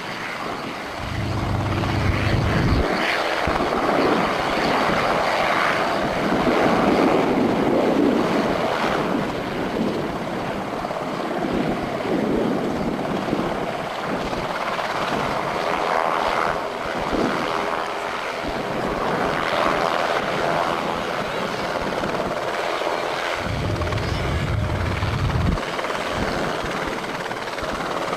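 Enstrom F-28F light helicopter running, with its piston engine and rotor making a loud, steady noise that wavers in tone. Deep rumbles come in about a second in and again near the end.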